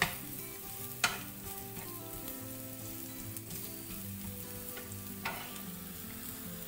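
Shallots and grated coconut sizzling in ghee in a non-stick pan as a wooden spatula stirs them, with a sharp knock of the spatula against the pan at the start, about a second in and again near five seconds.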